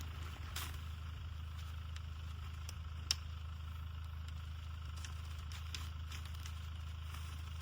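Wood fire crackling in a wood-burning stove: scattered sharp pops and clicks, with a louder pop about three seconds in, over a steady low hum.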